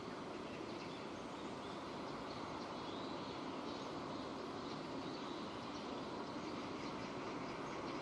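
Steady rain, an even unbroken hiss of falling rain.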